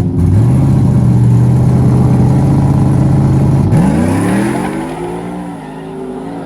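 Street-race vehicle engine held at steady high revs, with a brief dip right at the start. About 3.7 s in, the revs drop and then climb in rising sweeps as the sound fades, like the vehicle launching and accelerating away.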